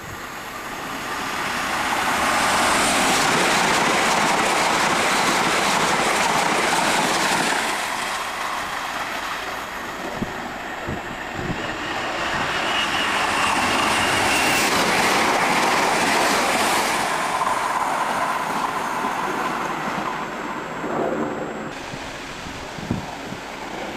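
Two Heathrow Express Class 332 electric units passing at speed one after the other: a rushing rumble of wheels on rail that swells and fades twice. A high steady whine comes in as the second train approaches.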